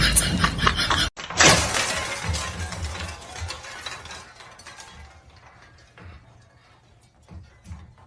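A loud shattering crash about a second and a half in, followed by scattered clinks and rattles that fade away over several seconds.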